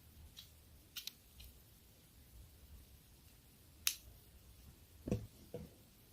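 Small magnetic toy clicking and snapping as it is handled: a few light clicks, one sharp snap about four seconds in, then two short low knocks near the end.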